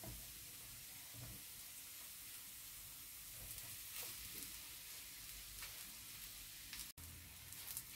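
Sliced mushrooms and chopped garlic sizzling faintly in olive oil in a nonstick frying pan over raised heat, with a few soft scrapes and knocks of a spatula stirring them.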